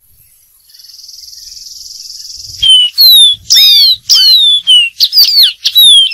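Dark-throated seedeater singing: after a steady high buzz that swells for about two seconds, a run of loud, clear whistled notes, most of them sliding down in pitch, about eight in quick succession.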